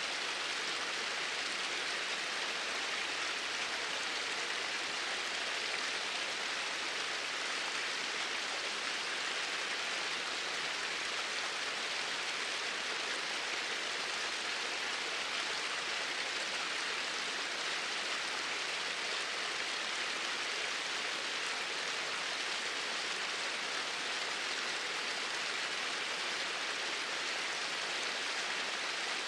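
Flowing water running steadily, an even rushing sound with no change in level.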